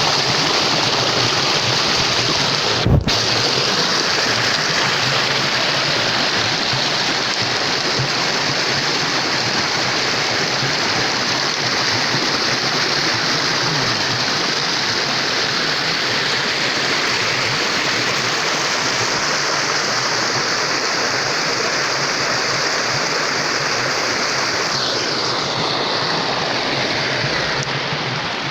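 Steady rush of flowing water, with one brief thump about three seconds in.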